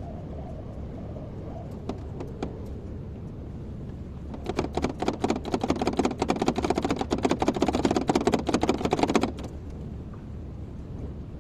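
Kobelco excavator running steadily. From about four and a half seconds in, a dense clattering of rapid hard knocks lasts for about five seconds and then stops, as of rock or debris rattling against the machine's steel.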